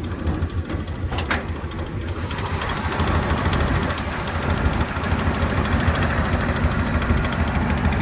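1968 Camaro's V8 idling through long-tube headers, a steady low exhaust pulse. About two seconds in a rushing hiss joins it and the sound gets a little louder.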